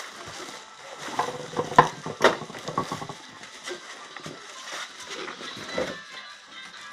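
Packing material being pulled off and handled by hand: irregular rustling with scattered light knocks, busiest in the first half and quieter afterwards.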